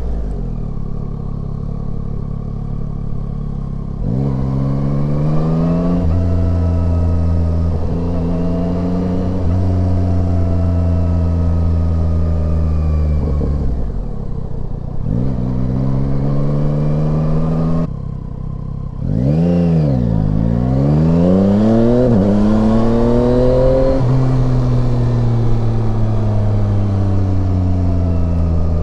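Yamaha Tracer 9 motorcycle's three-cylinder engine heard on the move, revs climbing and dropping repeatedly as it accelerates and shifts through the gears. The throttle closes briefly about two-thirds of the way through, the revs dip and then rise again.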